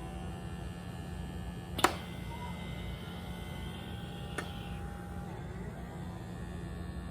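Handheld pore vacuum running at its highest suction setting, a steady small-motor hum whose faint tone bends in pitch as the suction nozzle moves over the skin. A sharp click about two seconds in.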